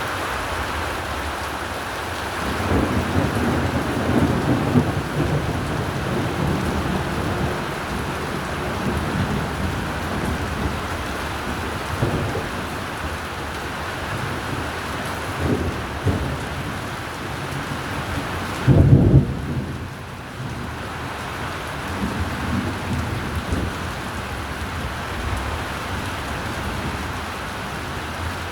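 Steady rain with rolling thunder: a long rumble starting about two and a half seconds in, shorter rumbles around the middle, a short loud crack about two-thirds of the way through, and weaker rumbles after it.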